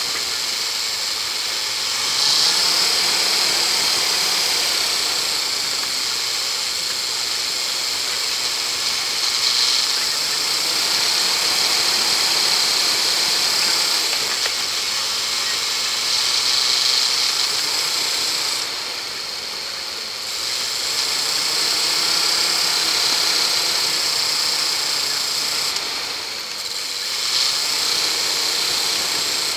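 Land Rover engine running as the vehicle drives along a rough track, its revs rising and easing off several times, under a steady hiss.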